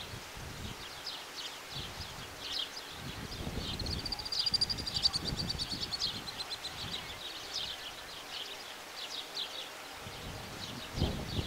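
Small birds chirping: short high chirps over and over, with a rapid, high trill about four to six seconds in.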